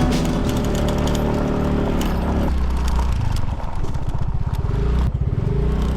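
Yamaha QBIX scooter's single-cylinder engine running, easing off about two and a half seconds in to a low, evenly pulsing idle, then picking up again near the end.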